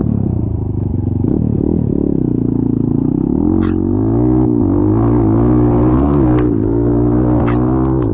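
Off-road vehicle's engine revving hard under load on a slippery climb; its pitch rises about three seconds in and holds high, wavering, with a few short knocks and clatters.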